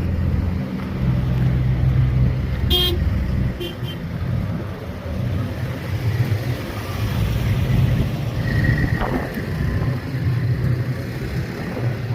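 Road traffic with vehicle engines running at close range and a short car-horn toot about three seconds in.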